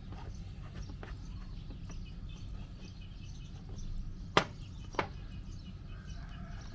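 Two sharp clicks about half a second apart, a little past the middle, from the Wacaco Picopresso handheld espresso maker being handled as it is readied to pump. Under them runs a low outdoor rumble with faint bird chirps.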